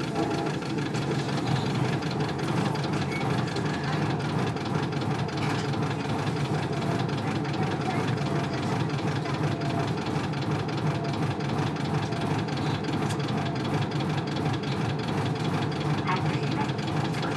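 Isuzu Cubic KC-LV380L bus's 8PE1 V8 diesel engine running steadily, heard from inside the passenger cabin.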